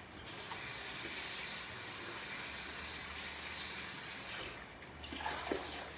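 Kitchen tap running in a steady stream for about four seconds, then shut off, followed by a few light knocks.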